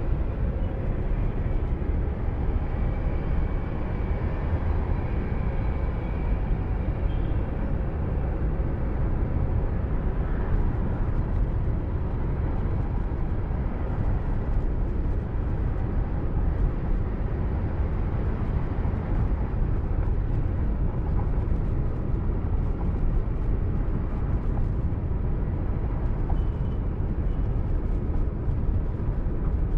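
Steady low road and engine rumble of a moving car, heard from inside the car.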